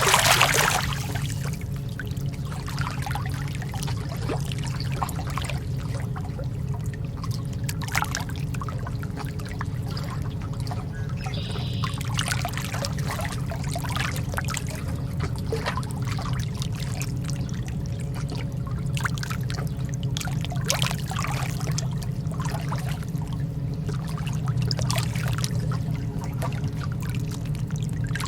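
Lake water lapping gently at the shore: irregular small splashes and trickles over a steady low rumble, with a slightly louder splash right at the start.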